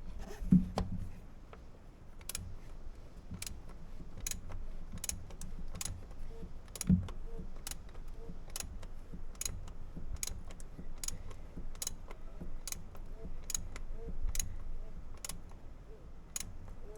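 Socket ratchet clicking in short, uneven strokes, about two clicks a second, as a fitting is snugged a little past hand-tight during an oil change. Two dull knocks, one about half a second in and one about seven seconds in.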